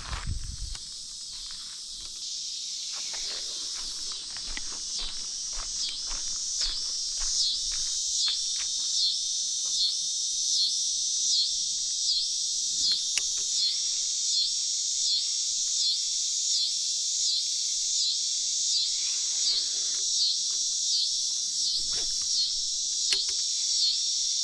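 Evening insect chorus, a steady high-pitched trill with a regular pulse about one and a half times a second, growing louder over the first several seconds.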